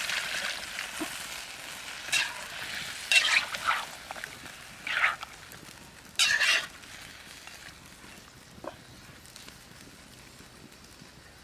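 Country chicken curry sizzling in a pot, with four short, louder bursts of stirring between about two and seven seconds in.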